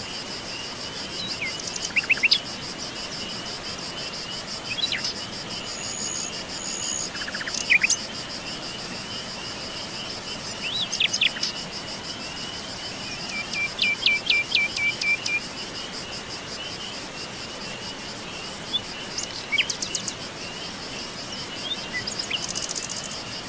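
Songbirds chirping and calling in short scattered phrases, some as quick trilled runs, over a steady high-pitched insect trill like crickets.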